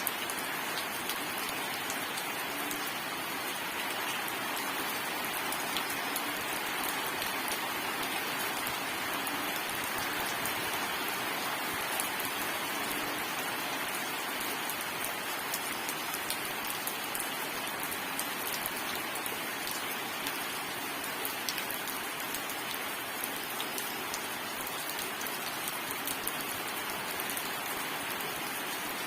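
Steady rainfall, with many small drops ticking on surfaces over a constant hiss.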